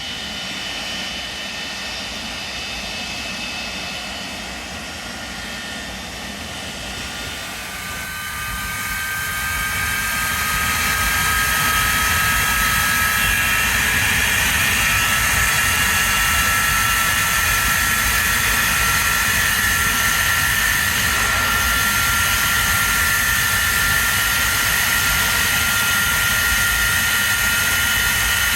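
English Electric Lightning's Rolls-Royce Avon turbojet (No. 1 engine) running on a ground run, with a high whine over a rushing roar. About eight seconds in it spools up: the whine rises in pitch and the sound grows louder, then it holds steady at the higher setting.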